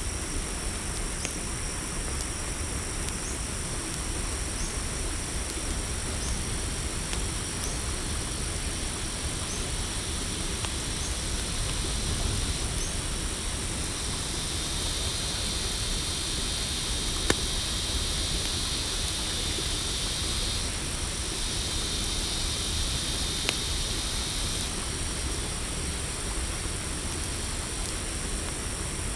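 Night-time insect chorus of crickets trilling steadily at a high pitch over a low rumble, with an occasional sharp pop from a campfire. A second, denser insect buzz comes in about halfway and stops again a few seconds before the end.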